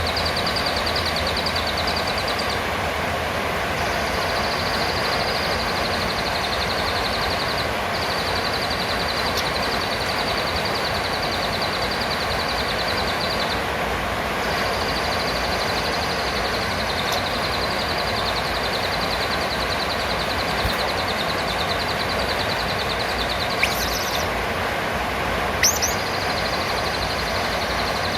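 Outdoor field recording: a steady, high-pitched, finely pulsing trill over a constant hiss, breaking off briefly twice. Two short, sharp, high calls sound near the end.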